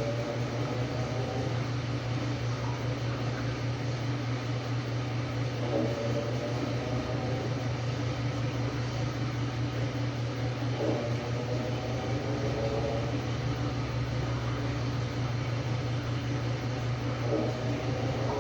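Samsung WA45T3200AW top-load washer with impeller running with a steady motor hum. A brief higher-pitched sound comes back every five or six seconds.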